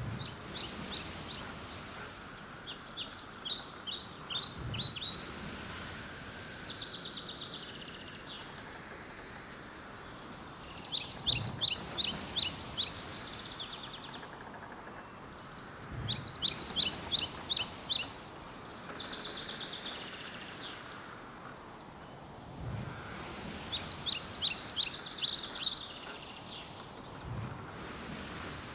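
A songbird singing, repeating a short phrase of rapid high notes every few seconds, over a steady background hiss of outdoor ambience.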